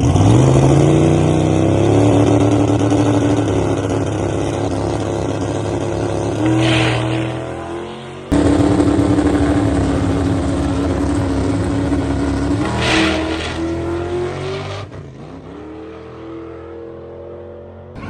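Twin-turbo 1970 Chevelle's engine running hard under acceleration, its pitch climbing and then holding high. There is an abrupt break about eight seconds in, and the engine eases off near the end.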